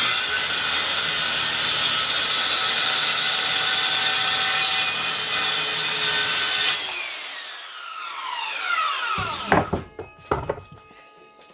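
Handheld circular saw running at full speed through a cut in a board for about seven seconds. The trigger is then released and the saw spins down with a falling whine, followed by a few knocks about two seconds later.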